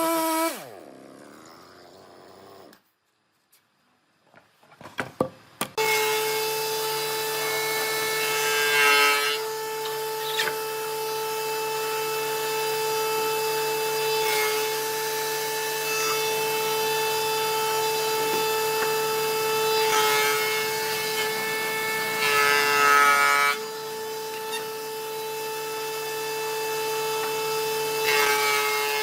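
A woodworking power tool spins down and stops. After a short pause and a few clicks it starts again about six seconds in and runs at a steady pitch while working wood. The sound of the cut swells twice, about nine seconds in and again a few seconds before the end.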